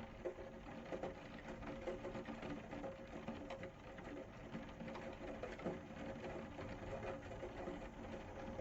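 Rain falling: a steady patter of many small drops landing, with a faint steady hum underneath.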